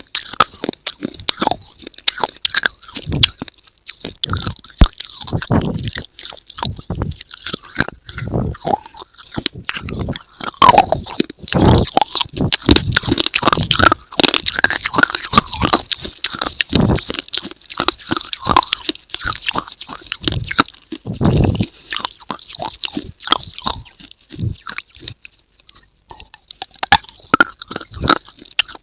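Close, loud, irregular crunching and clicking, with a few heavier crunches now and then.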